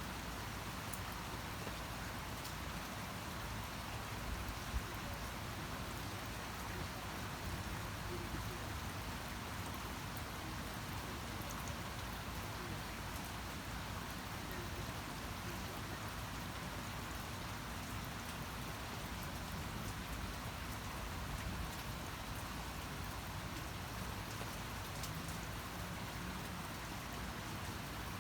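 Steady rain falling, an even hiss with scattered drop ticks and no let-up.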